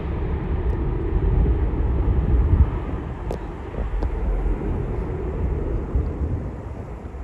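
Airbus A330 jet engines at takeoff power: a steady deep rumble as the airliner climbs away, easing slightly toward the end.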